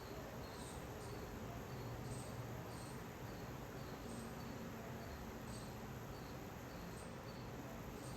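An insect chirping faintly in short high notes, about two a second, over a steady low background hum.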